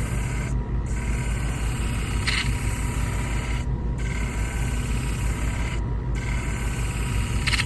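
Powered shear-sharpening machine running steadily, its motor humming while a curved grooming shear blade is ground on a 1200-grit disc. The grinding hiss drops out briefly three times.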